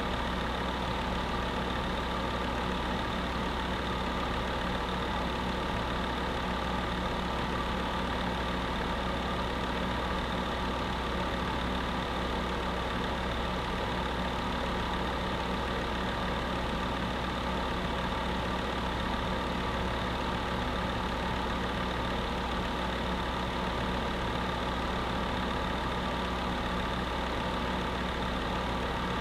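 Space heater running steadily: a constant hum of several steady tones over an even rush of noise, with no change in level or pitch.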